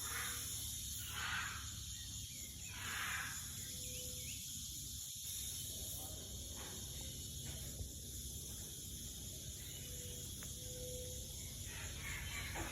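Outdoor ambience: a steady high chirring like insects over a low rumble, with three short bursts of rustling noise in the first three seconds.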